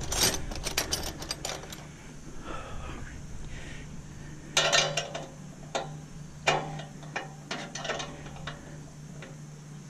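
Irregular clinks and clanks of hand tools and loose metal parts while a stainless steel bread steamer is being dismantled, over a low steady hum.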